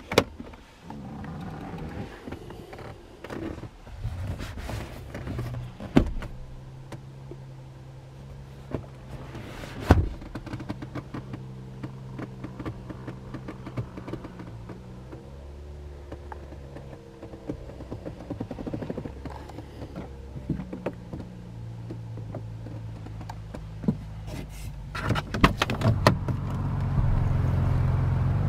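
Power-adjust electric motors in a car cabin running in stretches, with sharp clicks and thunks. A louder steady rumble builds near the end.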